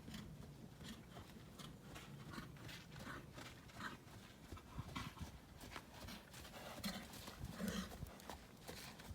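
Hoofbeats of a ridden horse, a steady run of footfalls.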